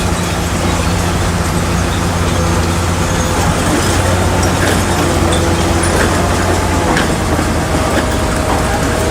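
Heavy diesel engine running steadily under load, its note shifting slightly about seven seconds in.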